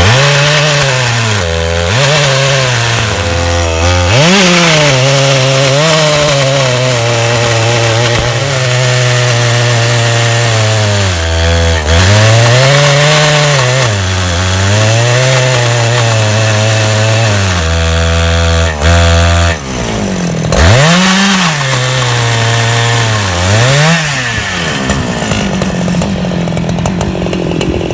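Chainsaw on a Timberjig chainsaw mill ripping a log lengthwise into a plank, running under load. The engine note sags and recovers repeatedly through the cut and climbs near the end.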